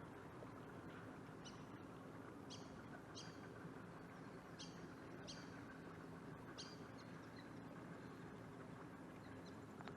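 A bird calling with about six short, sharp chirps spaced a second or so apart, over a faint steady low hum.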